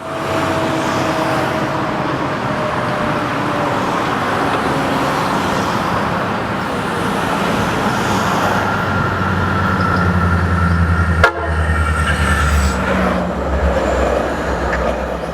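Canadian Pacific train running past on the line: steady rail and wheel noise, with a deep diesel locomotive engine rumble growing stronger in the second half and one sharp knock a little past the middle.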